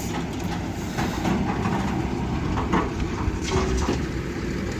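A heavy vehicle's engine running with a low rumble, with a few short knocks about three seconds in and again a little later.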